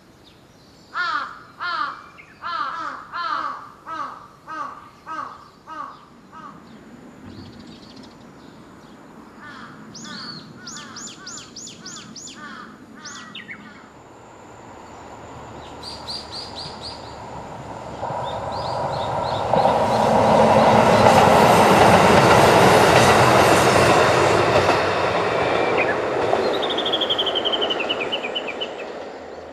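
A bird calls about eight times in quick succession and smaller birds chirp. Then a diesel train approaches on the non-electrified line, the noise of its wheels on the rails swelling, loudest for a few seconds, and fading away near the end.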